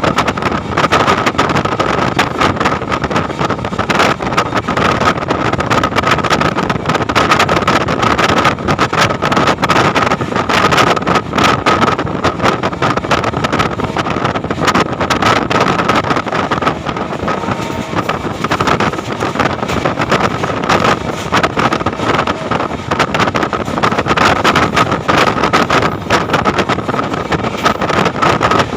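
Moving passenger train heard from on board: steady running noise of wheels on track with many short irregular clicks and rattles, and a steady high thin tone.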